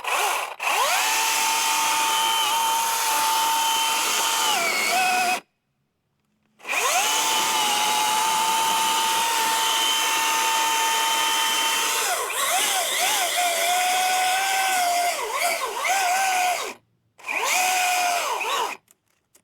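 Milwaukee M18 battery top-handle chainsaw's electric motor running in three trigger pulls, the chain cutting into a hardwood log. The whine holds steady and then sags lower in pitch as it cuts under light pressure, which the owner takes as a sign that the saw is failing.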